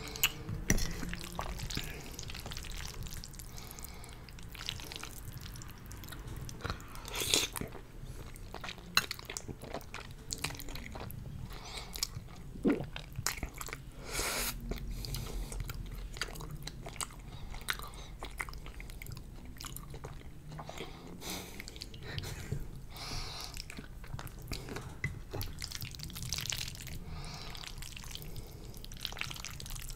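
Close-miked chewing and wet mouth smacks of a person eating creamy chicken chili with fettuccine noodles, with sharp clicks of a metal fork against a glass baking dish.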